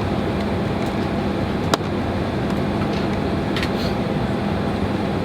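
Steady rush of cabin ventilation air with a low hum inside a Boeing 767-300 airliner cabin before takeoff, and one sharp click a little under two seconds in.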